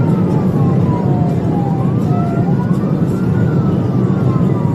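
Police car siren on wail, its pitch sweeping up and then gliding slowly back down, over the steady engine and road noise of a patrol car at pursuit speed.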